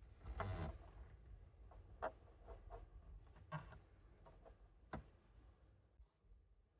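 A few faint, separate small clicks over a low steady background rumble, with a short rustle about half a second in.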